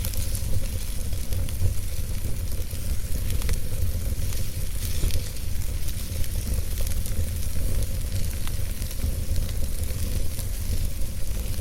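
Wood fire burning in a fireplace: a steady low rumble of the flames with a hiss and scattered small crackles and pops from the burning logs.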